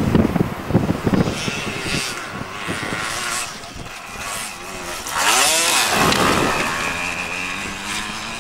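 Yamaha DT 125 two-stroke single-cylinder dirt bike engine running under throttle, its revs swelling and falling away about five seconds in, then holding steadier. Wind buffets the microphone in the first couple of seconds.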